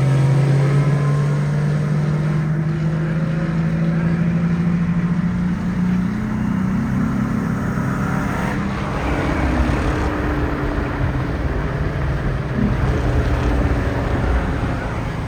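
Car engine running hard, its pitch climbing slowly for about six seconds, then falling back and holding steady.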